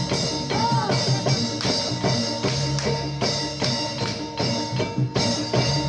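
Live Jathilan dance accompaniment: fast drum and percussion strokes in a steady beat over sustained ringing tones.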